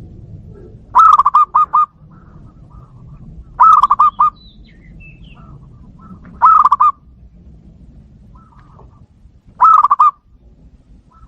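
Zebra dove (perkutut) cooing: four short phrases of quick, rolling notes, repeated about every three seconds.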